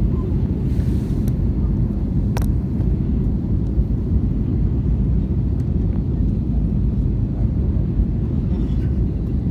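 Steady low rumble of engine and airflow noise inside an Airbus A319's passenger cabin in flight, with a single sharp click about two and a half seconds in.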